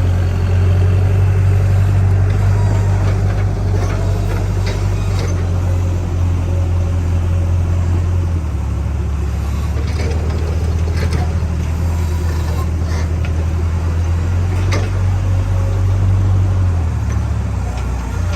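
Backhoe loader's diesel engine running steadily with a deep, low note that shifts in pitch about halfway through and again near the end, with scattered clicks and knocks over it.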